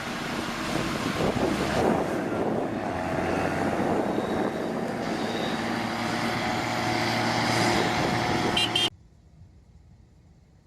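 Tractor engine running under load, with wind noise on the microphone; the sound cuts off abruptly about nine seconds in.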